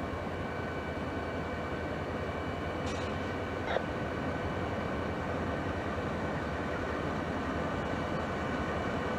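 Diesel-hauled train on the move: a steady rumble with faint steady whining tones above it, and a short sharp clank about three and a half seconds in.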